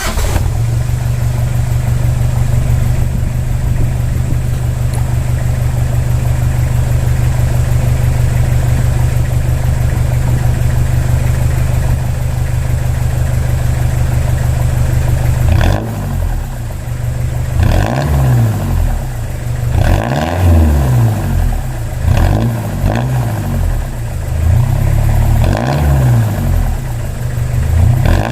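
Toyota Hilux 3L 2.8-litre naturally aspirated four-cylinder diesel idling steadily through a new 2.5-inch exhaust with a small silencer. About halfway in it starts being revved in short blips, the pitch rising and falling several times.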